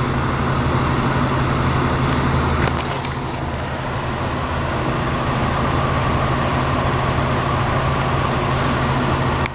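A motor vehicle's engine idling steadily: a low, even hum with a haze of street traffic noise over it.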